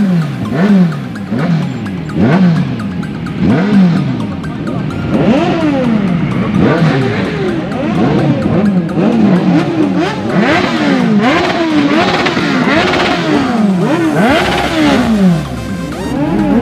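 Sport-bike engines revved again and again in quick throttle blips, each rev climbing sharply and dropping back, about one a second. More than one engine overlaps in the second half.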